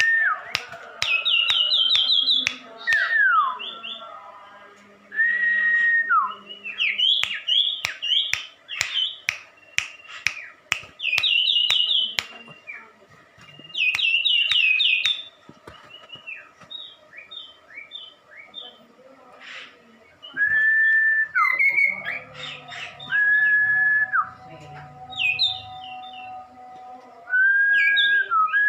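A caged songbird singing loud whistled phrases: long held notes that slide down at the end, alternating with fast runs of short rising notes and sharp clicks, in bursts with short pauses between.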